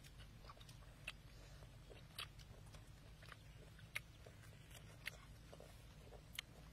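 People biting and chewing roasted food, with short sharp crunches about once a second over a faint low hum.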